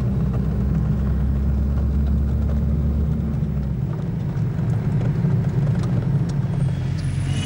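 A 4x4 off-road vehicle's engine running while driving on the road, a steady low drone whose deepest note drops away about four seconds in.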